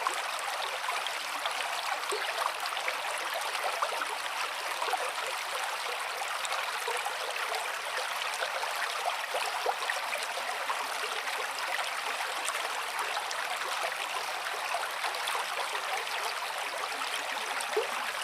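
Running water of a stream, a steady rush with many small splashes and trickles.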